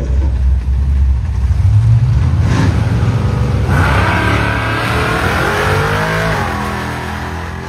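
AMC Gremlin drag car's engine held on the revs at the start line, then launching about three and a half seconds in and accelerating hard, the pitch climbing until it drops at a gear change near the end. The sound then fades as the car pulls away down the strip.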